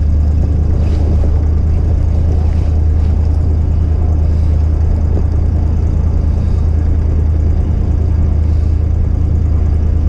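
Truck engine running steadily: a constant low drone with no change in pitch or level.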